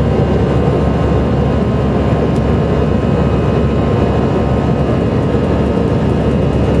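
Steady jet engine and airflow noise heard inside the cabin of an Airbus A319-111 with CFM56 turbofans, an even rush with a faint steady hum on top.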